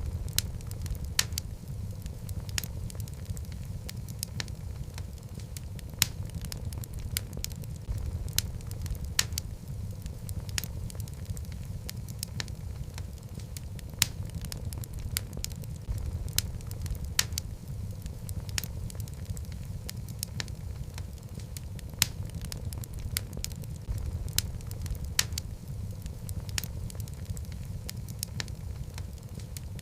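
Wood fire burning in a fireplace: a steady low rumble of the flames with frequent sharp, irregular crackles and pops from the logs, a few louder than the rest.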